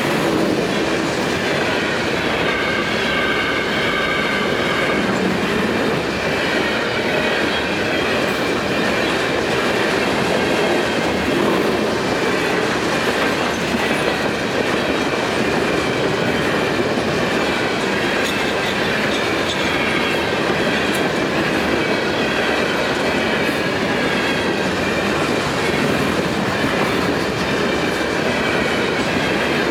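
Loaded potash cars of a long freight train rolling steadily past, their wheels clacking over the rail joints, with faint thin squealing from the wheels.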